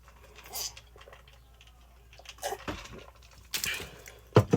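Close-miked mukbang eating and drinking noises: a few short, scattered mouth and handling sounds, then a sharp knock near the end.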